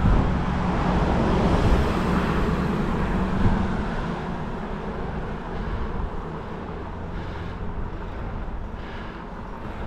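Wind and road noise while riding a bicycle: a steady rumble that is loudest for the first three or four seconds, then eases off.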